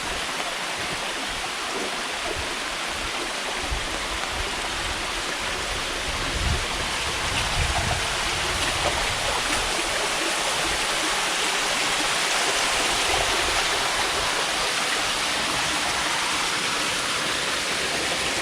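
Stream water rushing steadily over rocks, cascading in a gorge, growing slightly louder about six seconds in, with a few low bumps around then.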